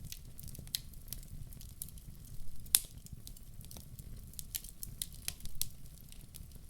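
Wood fire crackling in a fireplace, with irregular sharp pops, the loudest just before three seconds in, over a steady low rumble.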